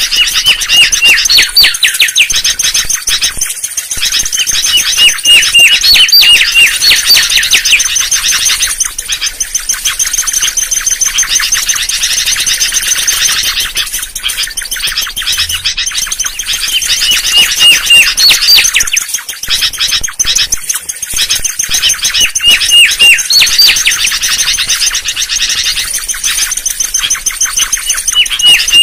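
Mangrove whistler (kancilan bakau) song played as a trapper's lure call: phrases of quick, sharply falling whistled notes, repeated every few seconds, over a steady high hiss.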